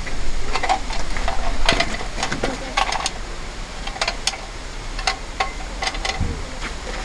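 A run of irregular light clicks and knocks, like small objects being handled, over a steady low rumble.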